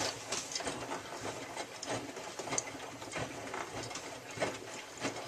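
Miele W3744 front-loading washing machine turning its drum mid-wash, with a run of irregular small clicks and knocks.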